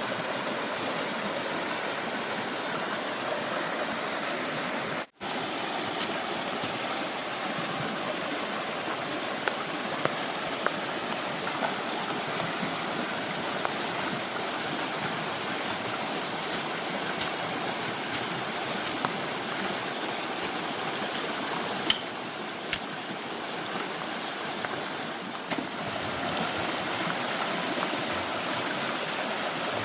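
Stream water rushing steadily, with a few sharp ticks and knocks over it and a momentary cut-out about five seconds in.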